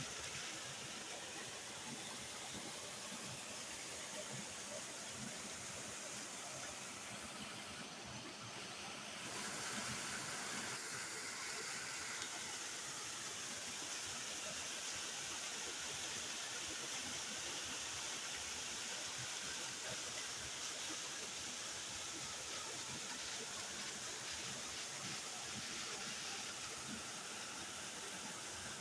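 Waterfall: water falling and splashing in a steady, even rush, slightly louder from about nine seconds in.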